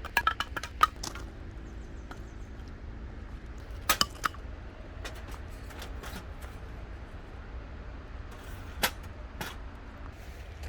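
Scattered sharp clicks and taps of small objects being handled: a quick cluster at the start, a double tap about four seconds in and two more clicks near the end, over a low steady rumble.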